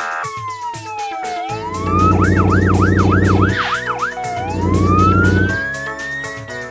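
Emergency-vehicle siren sound effect: a slow falling and rising wail, a run of about six quick up-and-down yelps in the middle, then a long rising wail, over background music.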